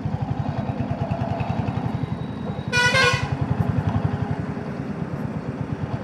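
Royal Enfield Hunter 350's single-cylinder engine thumping steadily as the motorcycle rides along, with one short horn honk about three seconds in.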